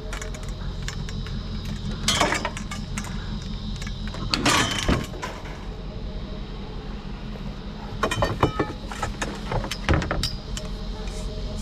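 Vehicle running steadily on the move, with a low steady drone and several short clatters and rattles about two, four and a half, eight and ten seconds in.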